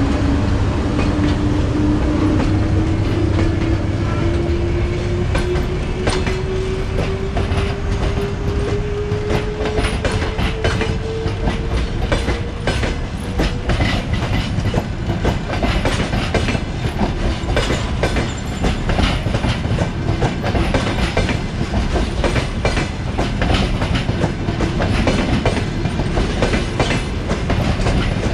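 EP1M electric locomotive pulling a passenger train away: its whine rises steadily in pitch through the first half and then fades, while the coaches' wheels click over the rail joints in a thickening run.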